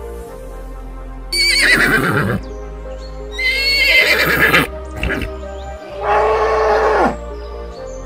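A horse neighing three times, each whinny about a second long with a wavering high pitch, over background music.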